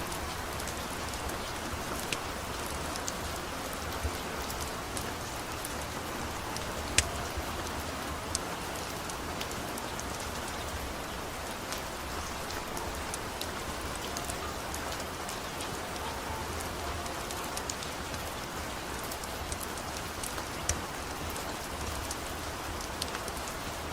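Steady rain falling, an even hiss, with scattered sharp clicks and drips; the loudest click comes about seven seconds in.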